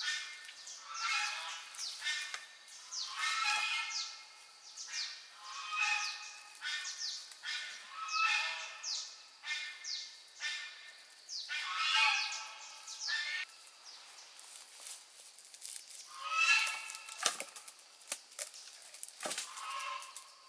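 Birds calling in repeated bursts, about one a second, with a quieter break of a couple of seconds about two-thirds through.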